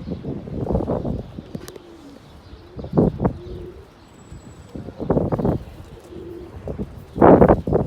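Domestic pigeons cooing: short low coos, with several louder muffled bursts, the strongest near the end.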